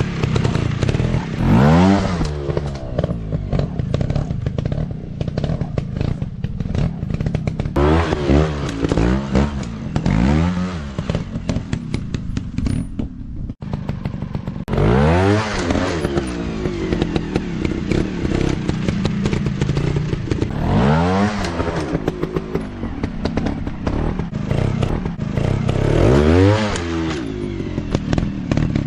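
Dirt bike engines revving hard and dropping back several times, the pitch climbing and falling with each burst of throttle, over a constant rattle and clatter.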